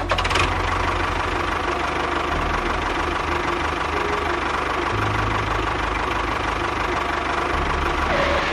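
A small machine motor running steadily, with a constant whine and a low rumble.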